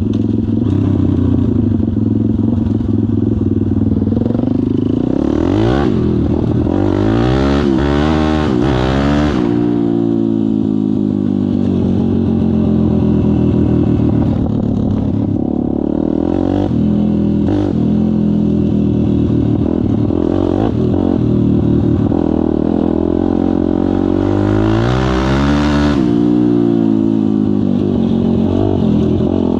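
Kayo pit bike engine running, its pitch rising and falling as the throttle is worked. It revs up in several quick pulls about five to nine seconds in, and once more near the end.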